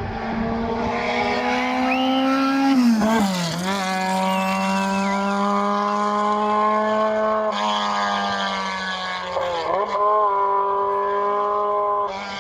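A race car's engine held at high revs as it climbs, the pitch creeping up in each gear and dropping sharply at an upshift about three seconds in and again near the ten-second mark.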